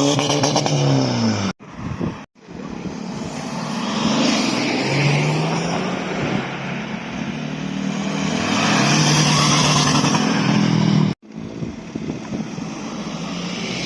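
Car engine revving, its pitch rising and falling several times over a rough exhaust noise. The sound drops out abruptly for a moment about a second and a half in, again just after two seconds, and near the end.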